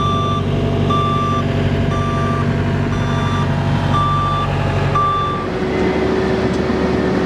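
Reversing alarm of a heavy road-works vehicle beeping about once a second, six beeps, over its steady diesel engine drone. The beeps stop about five and a half seconds in while the engine keeps running.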